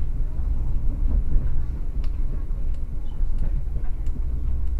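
Steady low rumble of a passenger train running along the track, heard from inside the carriage, with a few faint clicks.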